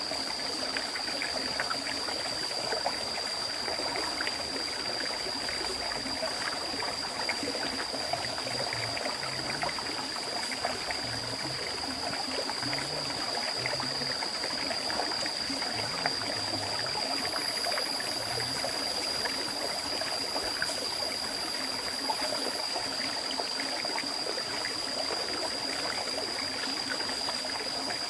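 River stream flowing steadily, with a constant high-pitched whine above the water; a fainter, higher hiss comes in for about five seconds past the middle.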